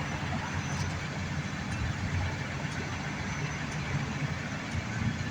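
A motor vehicle engine running steadily at idle, a constant low rumble with street noise over it.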